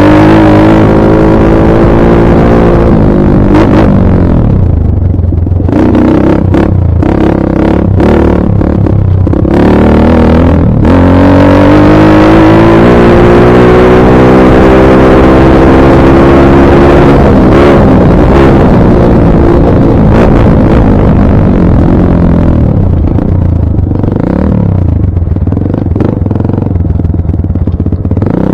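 Dirt bike engine running loud, its pitch climbing and falling as the throttle is opened and let off. Knocks and clatter come through between about four and eleven seconds in.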